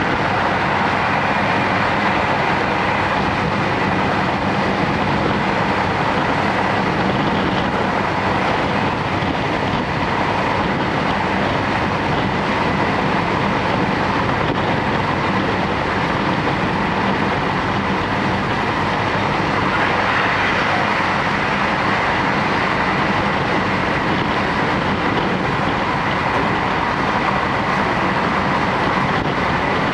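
Cabin noise of a JR Hokkaido Series 711 electric train running along the line: a steady rumble of wheels on rail heard from inside the passenger car.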